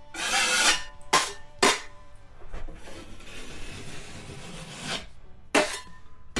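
Drywall knife scraping joint compound across a patch in a series of strokes: a longer pass at the start, two quick swipes, a slower, steadier spread, then another quick swipe near the end.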